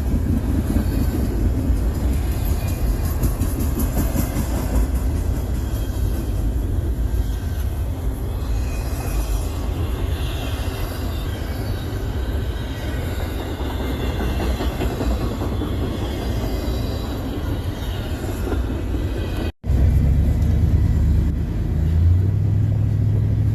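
Freight train passing, a steady loud rumble of the train running on the rails. About 19 seconds in it cuts off abruptly, and a steady low engine hum follows.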